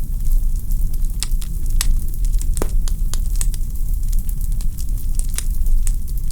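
Wood fire burning in a fireplace: a steady low rumble of flames with irregular sharp crackles and pops from the logs, one louder pop a little over halfway.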